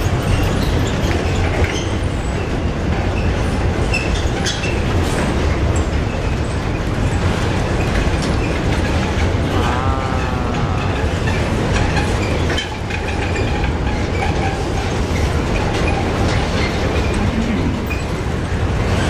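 Freight train of pulp wagons rolling past, a steady rumble of steel wheels on rail with clickety-clack over the joints. A short wavering squeal about ten seconds in.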